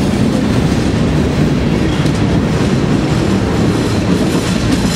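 Heavy freight train rolling slowly past at very close range inside a rail tunnel: a loud, steady rumble of wheels on rail.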